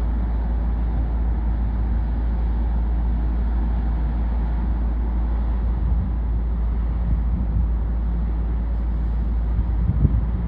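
Steady low rumble of a boat's engine, with a slight swell in level near the end.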